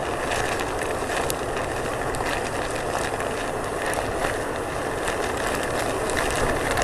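Strong typhoon wind blowing hard over the phone's microphone, a steady rushing roar with scattered small clicks and rattles.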